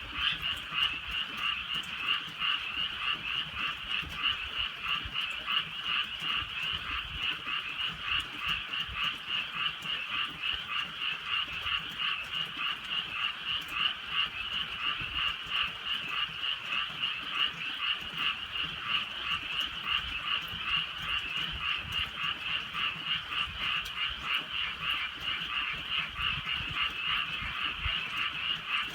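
A dense chorus of many frogs calling at once, a continuous overlapping croaking that pulses rapidly and never lets up.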